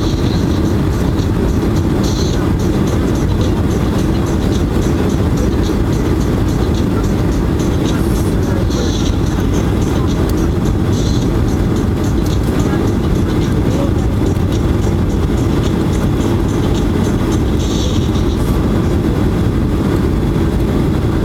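Steady low rush of engine and airflow noise inside the cabin of a Boeing 737-800 airliner, with its CFM56 turbofans, in flight on approach, holding even throughout.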